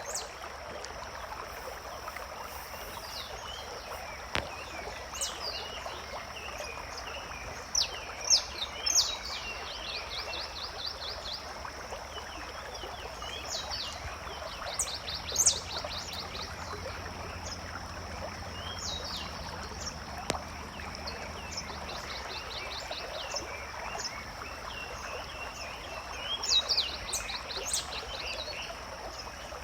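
Forest ambience: a bird sings a short song of sharp notes ending in a fast trill, four times, over a steady trickling stream and a constant high-pitched drone.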